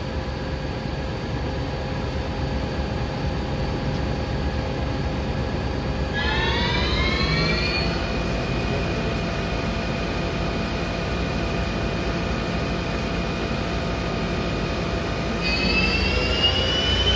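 Mazak Slant Turn 450 CNC lathe spindle running with a steady motor whine over a low hum. The whine rises in pitch as the spindle speeds up about six seconds in, holds steady, then climbs again near the end.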